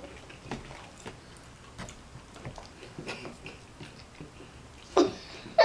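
Soft chewing and small wet mouth clicks of people eating fried chicken wings, with one short, louder sound near the end.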